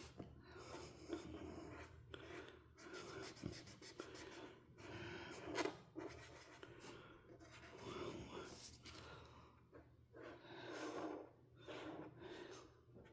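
A coloring tool scratching on paper in short, irregular strokes as a page is colored in.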